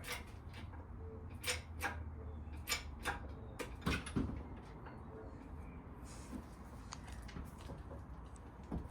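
Scattered sharp clicks and knocks of hands and tools at work in the engine bay during engine removal, most of them in the first half and one more near the end, over a faint steady low hum.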